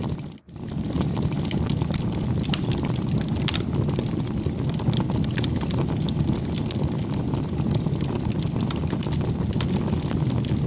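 Wood fire burning: a steady low rumble with frequent sharp crackles and pops. The sound drops out for an instant about half a second in.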